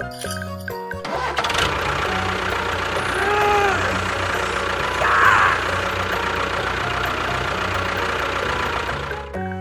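An engine starts about a second in and runs steadily with a fast low pulse, then cuts off near the end. A short tone rises and falls about three seconds in, and a brief high squeal comes about five seconds in.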